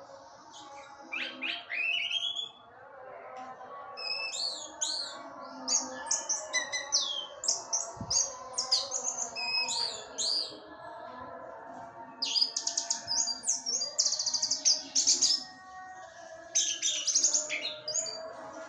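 Orange-headed thrush (anis merah) singing a varied song of fast, sweeping high whistles and chirps. It comes in four bursts separated by short pauses. It is the kind of song that goads other orange-headed thrushes into singing.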